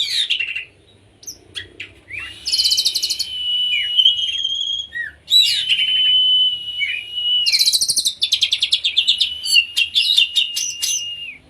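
Oriental magpie-robin (kacer) singing in the fast, electric-sounding 'konslet' style: three long phrases, each a held whistle with rapid rattling trills above it and short downward-sweeping notes, separated by brief pauses.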